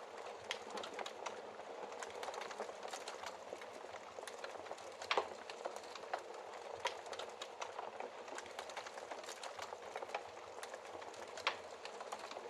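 Wood fire burning in a fireplace: a steady hiss with irregular crackles and pops, the loudest pop about five seconds in.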